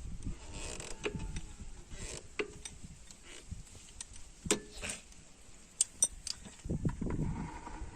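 Scattered metallic clinks and knocks, irregular and sharp, with a couple of brief high rings about six seconds in.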